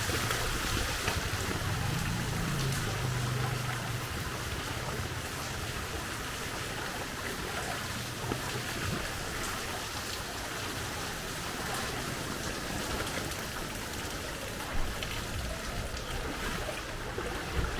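Steady rain falling, an even hiss, with a vehicle's low engine rumble that fades out over the first few seconds. One sharp tap sounds near the end.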